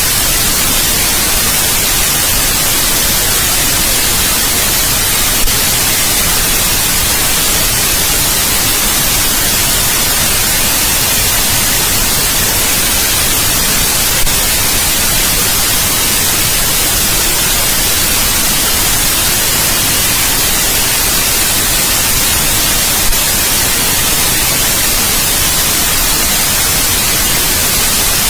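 Steady white noise: an even hiss, brightest in the treble, with three faint clicks about nine seconds apart.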